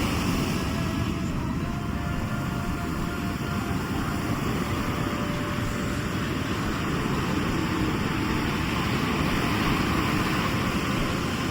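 Sea waves washing onto the shore in a continuous rush, with a deep rumble underneath.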